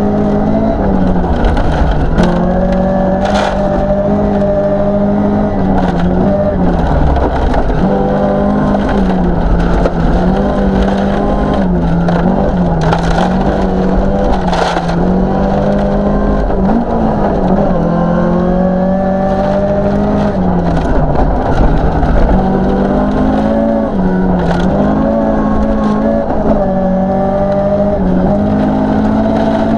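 Toyota Celica 2.0GT's 2.0-litre 16-valve four-cylinder engine heard from inside the cabin at full rally pace, revving up through the gears and dropping back with each shift and lift for corners. A few sharp knocks and crackles come from the car running over the gravel road.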